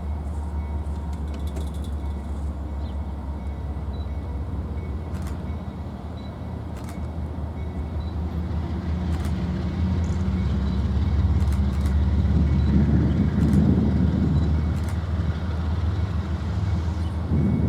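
Diesel locomotive engine running with a steady low throb that grows louder about halfway through, as if the locomotive is drawing closer.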